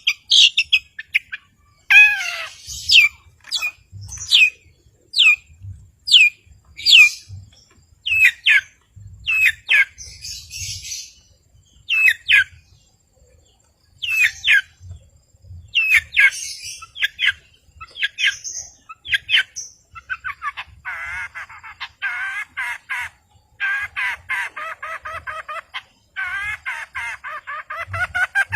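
Long-tailed shrike (cendet) singing: separate sharp, falling notes about once a second, then, about two-thirds of the way through, a fast, dense run of chattering notes.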